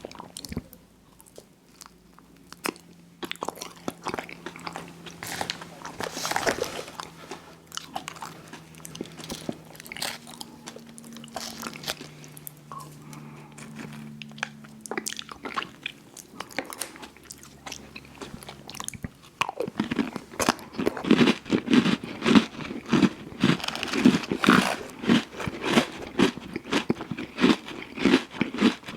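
Close-miked eating of ice cream sandwiches: bites, crunching and mouth clicks, sparse at first. About two-thirds of the way in it becomes steady, louder rhythmic chewing.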